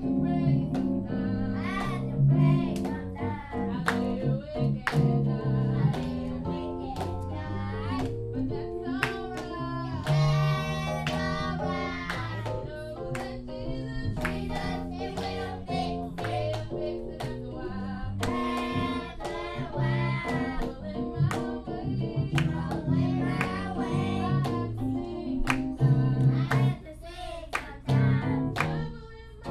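Youth praise team singing a gospel song with instrumental backing and a steady beat.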